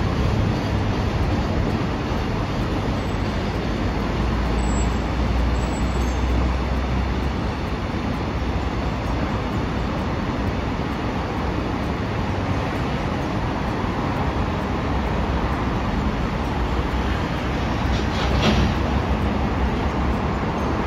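A train running past, a steady rumble of wheels on rail with no clear breaks, and a brief louder knock near the end.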